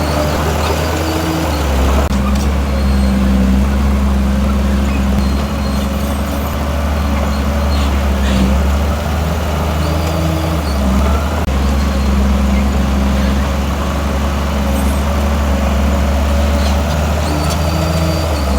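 Heavy diesel earthmoving machinery running steadily, its deep engine note rising and falling slightly in pitch as it works.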